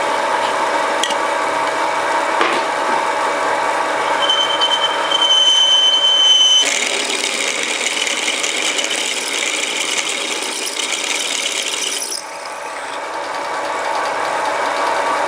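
Home-built mini lathe with a 750 W single-phase motor running while a drill bit works against very hard steel. Under a steady machine hum, a thin high squeal sounds for a couple of seconds, then a louder scraping hiss lasts about five seconds and stops abruptly. It is the bit rubbing rather than cutting cleanly, because the steel is unusually hard.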